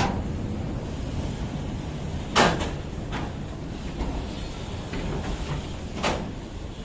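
A train moving slowly through the station: a steady low rumble broken by four sharp metallic clanks at uneven intervals, typical of wheels crossing rail joints and points.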